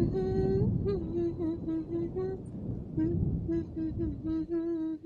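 A voice singing a wordless tune in short held notes with small slides between them, over a steady low rumbling noise.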